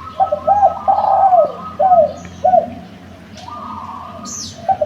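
Spotted dove cooing: a phrase of several short arched coos, then a pause, and another phrase starting near the end. A small bird gives one quick high falling chirp shortly before the end.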